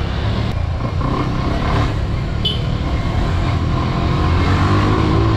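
Bajaj Boxer CT 100 motorcycle's small single-cylinder four-stroke engine running while riding, with a steady low rumble; the engine note rises near the end as it picks up revs. A brief high chirp about two and a half seconds in.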